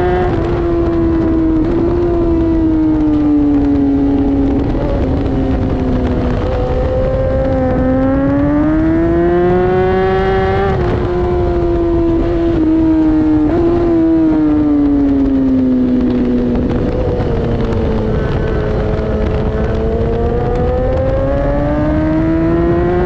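Litre-class inline-four sportbike engine at full track pace. Its note climbs under acceleration and drops back sharply at gear changes, and it sinks as the bike slows for corners.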